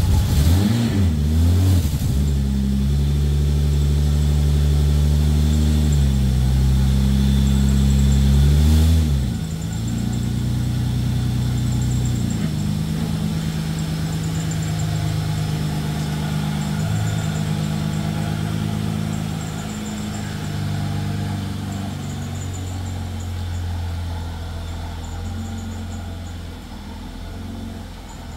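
Holden VS Commodore's 3.8-litre Ecotec V6 running just after start-up: the revs waver for the first couple of seconds, hold a higher idle, then drop to a lower idle about nine seconds in. The engine grows fainter over the last few seconds as the car backs out.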